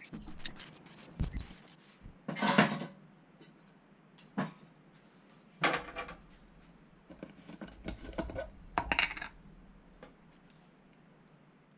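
Small metal parts being handled and set down, making irregular clinks and knocks, the loudest about two and a half seconds in.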